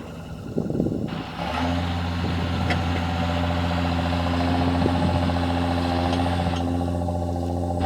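John Deere tractor engine running while plowing; about a second and a half in it grows louder and settles into a steady, even note.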